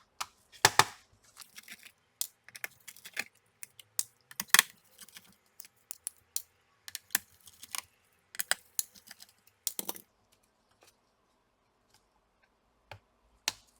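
Irregular sharp clicks, taps and light scrapes of a screwdriver and fingers working on the plastic chassis of an HP ProBook x360 11 G1 laptop while the battery's screws are taken out. The sounds thin out about ten seconds in, with a last click near the end.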